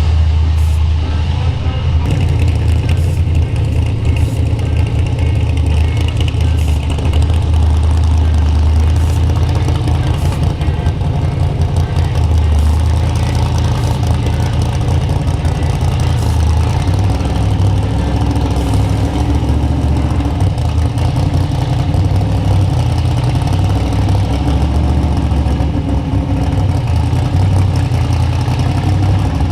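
Car engines running steadily, low and continuous.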